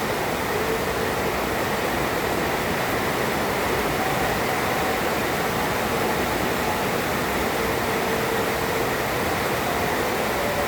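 Heavy rain pouring down steadily, an even rushing hiss with no thunder claps.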